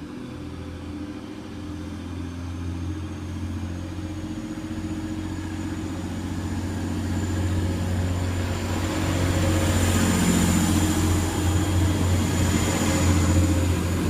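Class 185 diesel multiple unit pulling away from the platform, its underfloor Cummins diesel engines growing steadily louder, with a thin high whine above the engine note.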